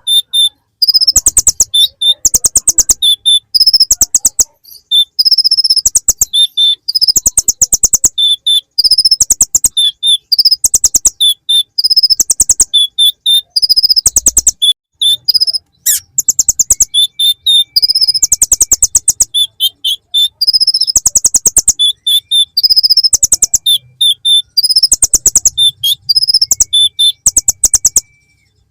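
Kolibri ninja (konin) sunbird singing a loud, high song of rapid ticking trills in short repeated phrases, filled with bar-winged prinia (ciblek) calls. The sound stops just before the end.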